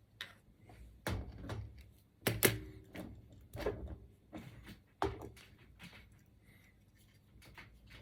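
Knocks and clicks of the Ender 3 S1's Sprite extruder parts and tools being handled during disassembly: about five sharp knocks roughly a second apart, the loudest about two and a half seconds in, with fainter clicks between.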